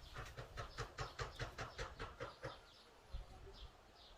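A quick run of rhythmic scraping strokes, about five a second, for the first two and a half seconds. Then small birds chirp with short falling notes.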